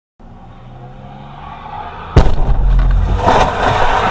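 Car engine and road noise from a dash cam that slowly grows louder, then about two seconds in a sudden, very loud crash impact, followed by continuing loud noise.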